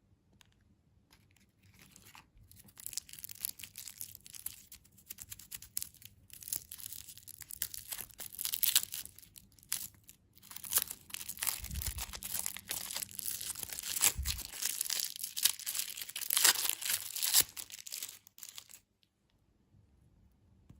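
Candy packaging being torn open and crinkled: irregular bursts of crisp crackling and tearing that start about two seconds in and stop shortly before the end, with a couple of soft low bumps along the way.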